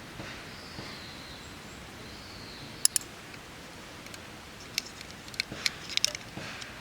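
Sharp clicks and light taps of gear being handled at a campsite: one pair about three seconds in, then a quick cluster around five to six seconds.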